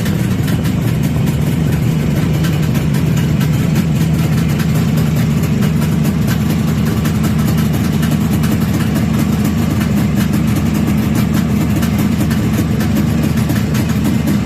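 Kawasaki Mach two-stroke three-cylinder motorcycle engine idling steadily, freshly repaired with its carburettors not yet adjusted.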